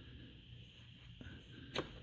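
A few sharp clicks of hand tools on metal, a faint one about a second in and a loud one near the end, over a low steady hum.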